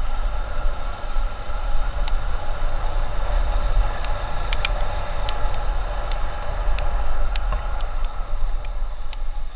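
Steady riding noise from a motorcycle on a highway: wind rumbling on the microphone over the hum of engine and tyres, with a few sharp clicks.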